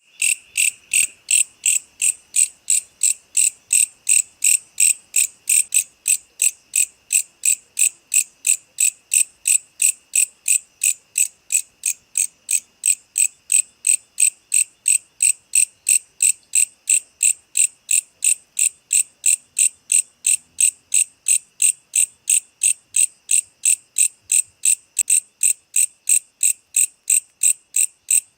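An insect calling with a steady train of short, high-pitched chirps, about three a second, keeping an even rhythm.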